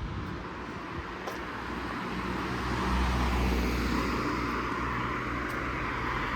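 A car passing on the street, its engine rumble and tyre noise growing louder to a peak about three seconds in, then easing off.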